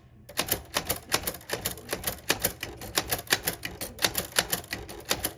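Rapid, irregular clicking or tapping, about six sharp clicks a second, with a brief gap just after the start.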